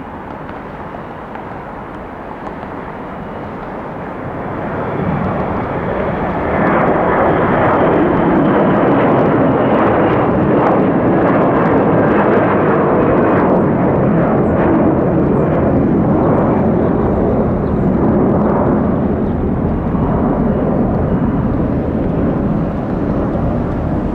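Airbus A321-200 airliner's jet engines at takeoff power as it departs, the noise building about four seconds in and staying loud, with a faint high whine that slides down in pitch as it passes.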